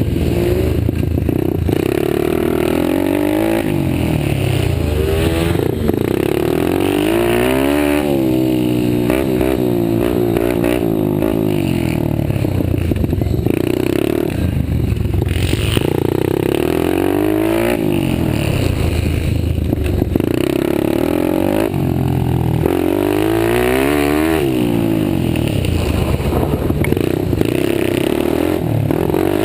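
Several pit bike engines racing together, each repeatedly revving up in pitch and dropping back as the riders open and close the throttle and shift, their notes overlapping.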